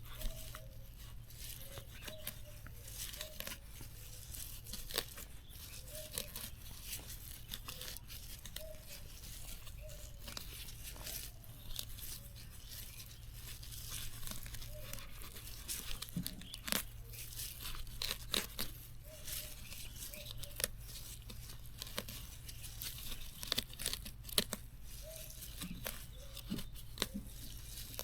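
Plant stems and leaves being torn and pulled by hand, an irregular run of tearing, snapping and crackling.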